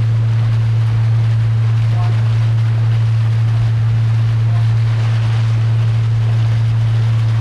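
Boat engine running at a steady speed, a loud even hum, with the rush of water and wind.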